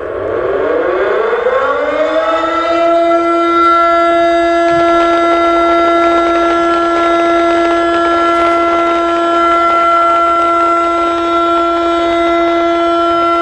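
Siren winding up, rising in pitch over about two seconds, then holding one loud steady tone.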